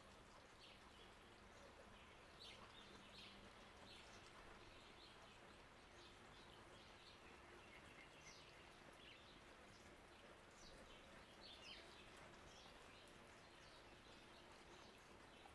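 Faint garden birds chirping, short high notes scattered irregularly, over a low steady hiss of a bird-bath fountain's flowing water.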